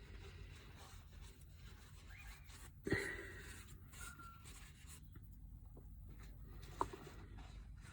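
Faint handling noises on a work surface: a light knock about three seconds in and a short sharp click near the end, over a low steady hum.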